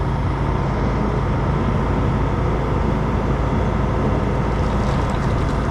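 Heavy diesel truck engine running steadily at a constant speed, with a low, even drone.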